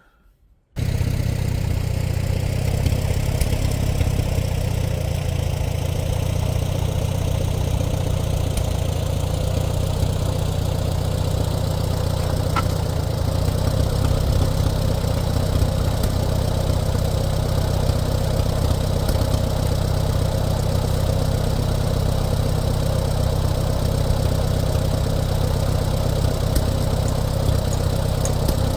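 Allis-Chalmers WD-45 tractor engine idling steadily, a little louder than it should be because of its broken exhaust manifold. It cuts in abruptly just under a second in.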